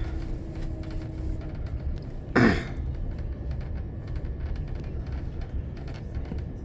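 Train running, heard from inside the carriage as a steady low rumble. About two and a half seconds in, a short loud sound falls sharply in pitch.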